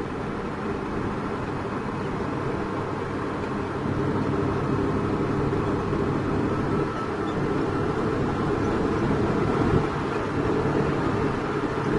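Heavy diesel engine running steadily, with a low even hum, getting somewhat louder about four seconds in.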